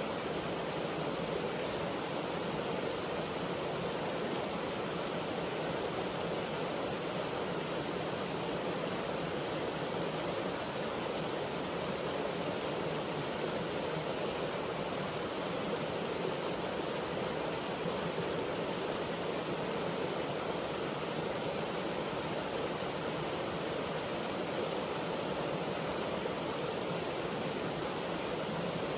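Brook water rushing steadily, an even noise with no breaks.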